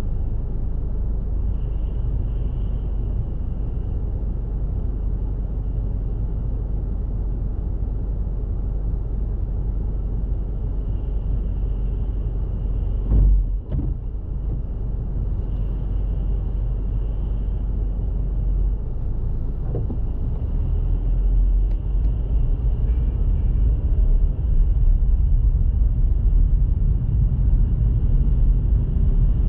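A car driving, with a steady low rumble of engine and road noise. There is a single short thump about halfway through, and the rumble grows louder over the last third.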